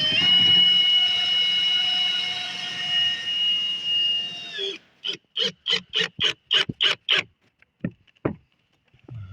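A power tool running with a steady high whine that steps up in pitch just at the start and stops after about five seconds, followed by about nine quick rasping strokes and two low knocks near the end.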